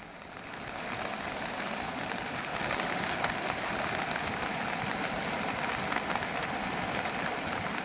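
Steady rushing of a stream in flood, rising over the first second and then holding level, with a few faint ticks.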